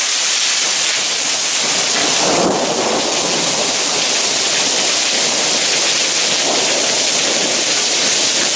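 Heavy rain pouring steadily, with a rumble of thunder about two seconds in.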